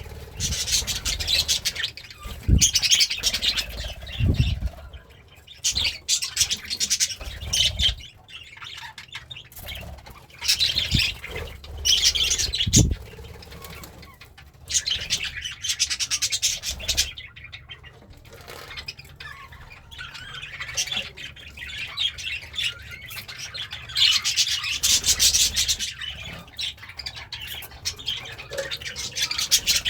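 Pet budgerigar chattering and warbling in buzzy bursts of a few seconds each, with short pauses between, and a few soft low thumps in the first half.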